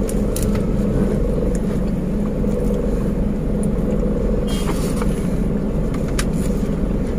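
Steady low drone of a car's idling engine heard from inside the cabin, with a few faint clicks in the second half.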